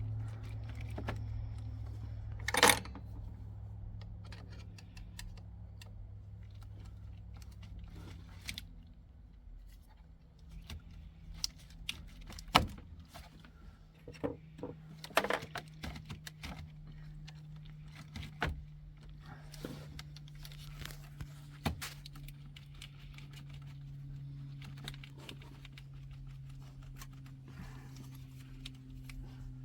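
Scattered metallic clicks, clinks and knocks of hand tools and parts being handled while working on a car battery's terminals, the loudest about two and a half seconds in and again near twelve seconds, over a steady low hum.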